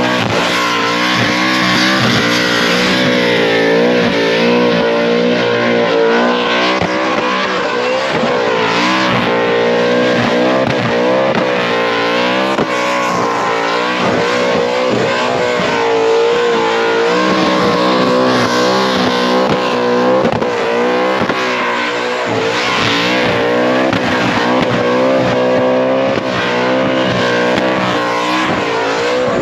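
Supercharged V8 of a burnout car running at high revs through a long burnout, its pitch swinging up and down, with tyres spinning and squealing against the pad.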